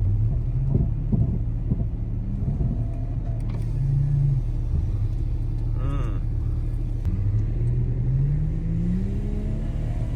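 Jeep engine running under load in snow, its pitch dipping and then climbing as it is revved.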